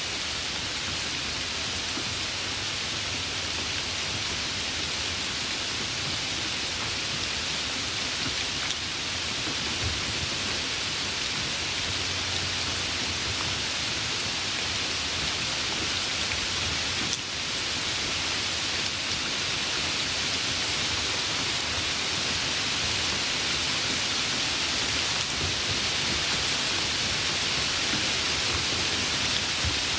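Light rain falling steadily: an even hiss with a few faint drop ticks.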